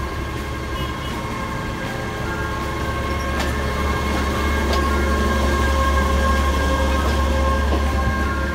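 Diesel train running slowly beside another train: a steady low engine drone with a high steady whine over it, and two sharp clicks from the wheels over rail joints. The sound grows louder about halfway through, then eases off near the end.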